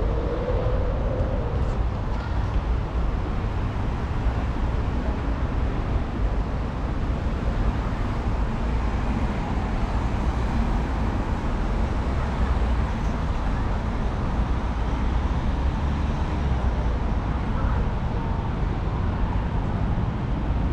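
Steady outdoor street ambience: a continuous low rumble of road traffic.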